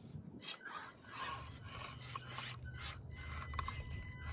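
Axial SCX24 micro RC crawlers scraping and rubbing over rock in irregular rasping patches, with a faint high steady whine in the second half.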